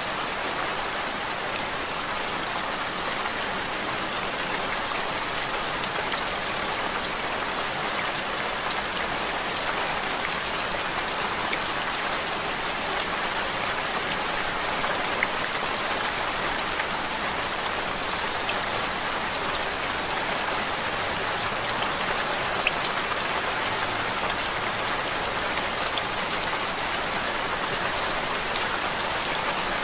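Steady rain falling on a surface: an even, unbroken hiss with scattered small drop ticks.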